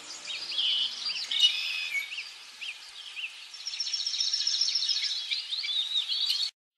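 Several birds singing: quick high trills and short chirps that rise and fall in pitch. The song cuts off suddenly near the end.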